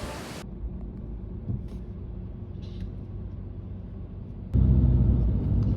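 Steady low road rumble of a car, heard inside the cabin. It becomes abruptly louder about four and a half seconds in.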